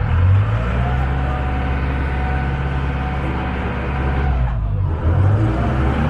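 Small passenger ferry's engine running loud and steady, its note shifting briefly about five seconds in as the throttle changes.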